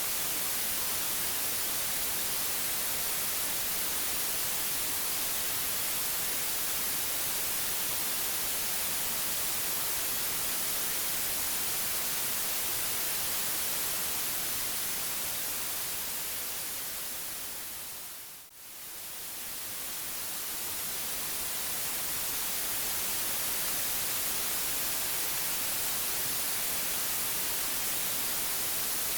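Steady white noise, an even hiss strongest in the highs. About two-thirds of the way in it fades smoothly down to almost nothing and swells back up to full level.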